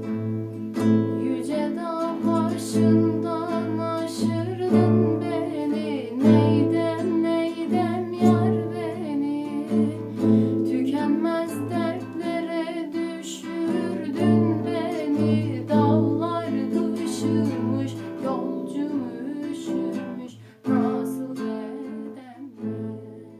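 A Turkish folk song performed with strummed and plucked acoustic guitar and a bending, ornamented sung melody. The music drops briefly near the end, then resumes.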